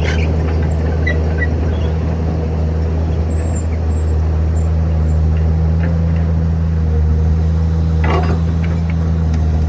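Heavy diesel engine of earthmoving machinery running at a steady speed, with a short burst of noise about eight seconds in.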